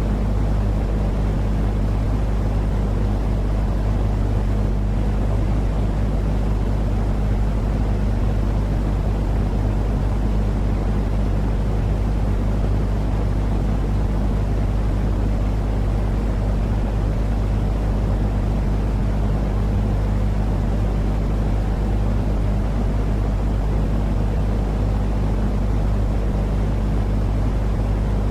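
Steady, unchanging noise track for lulling a baby to sleep: a deep rumble with a constant low hum under it and a softer hiss above.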